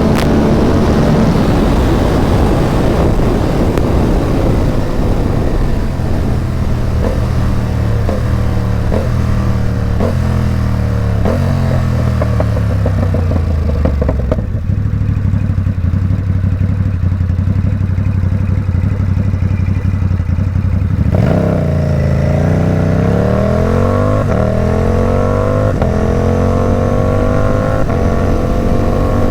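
Ducati Supersport 950 S's 937 cc L-twin engine, breathing through a loud Competition Werkes aftermarket exhaust. Engine speed falls as the bike slows, runs steadily at low revs for several seconds, then revs up sharply about two-thirds of the way through and keeps climbing as it accelerates.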